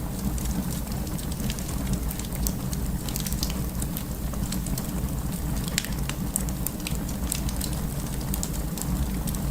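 Wood fire burning, with many small, sharp crackles and pops a second over a steady low rumble of the flames.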